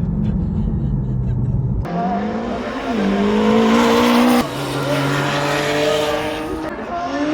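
A car engine accelerating hard, its pitch climbing and dropping back at gear changes, twice. It follows an abrupt cut, about two seconds in, from a lower, steadier engine drone.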